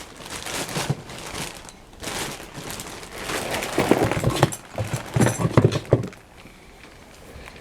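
Hand-work noises: rustling and irregular knocking and clicking as tools and wires are handled, busiest from about three to six seconds in.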